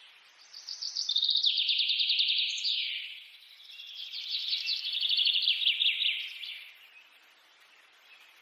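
A bird singing two phrases of rapid, high trilled notes, each lasting two to three seconds, with a short gap between them.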